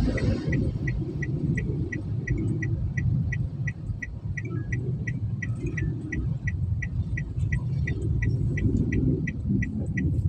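A low, steady rumble with an even run of short high-pitched beeps or chirps, about three a second.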